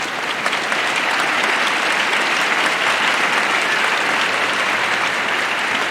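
Concert audience applauding steadily, a dense, even clapping.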